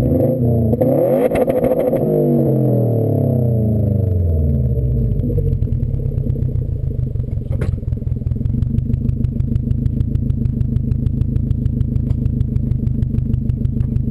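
2015 Subaru WRX STI's turbocharged 2.5-litre flat-four, running through a Nameless aftermarket exhaust, is blipped once about a second in. The revs fall away over a few seconds and it settles into a steady idle. A single sharp click comes about halfway through.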